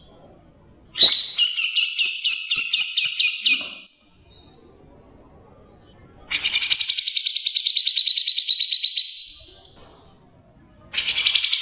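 White-rumped shama (murai batu) singing: three phrases of fast, evenly repeated notes, each lasting about three seconds, the first about a second in and the last starting near the end, with quiet pauses between.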